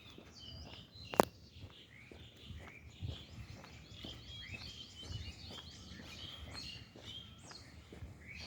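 Several birds chirping and calling in quick, overlapping short notes, with the soft thuds of footsteps on a trail. A single sharp click about a second in stands out above them.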